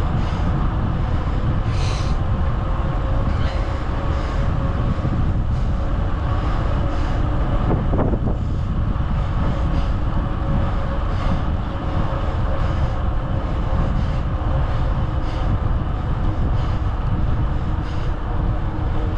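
Wind rushing over the microphone and the rumble of bicycle tyres on the road while riding, steady throughout, with a faint steady hum.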